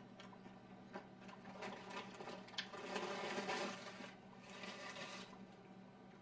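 Close-miked chewing and mouth sounds of someone eating, with a few small clicks and two longer soft rustling stretches about three and four and a half seconds in, over a faint steady low hum.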